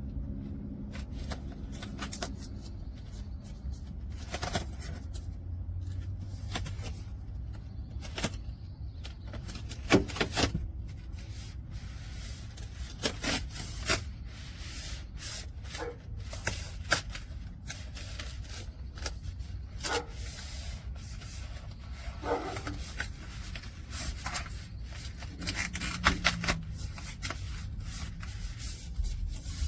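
Handling noises: scattered clicks, knocks and rubbing, as of material being moved and rubbed by hand, over a low steady hum.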